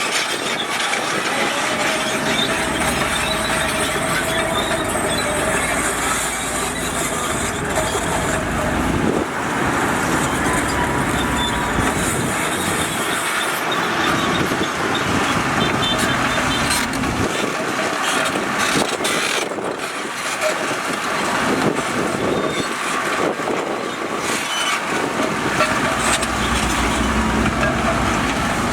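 Heavy earthmoving machinery at work, its diesel engines running steadily in a continuous mechanical din.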